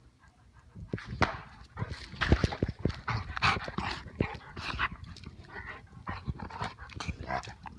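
American bulldog making breathing and vocal noises while playing, starting about a second in: a dense, uneven run of short noisy bursts mixed with sharp knocks.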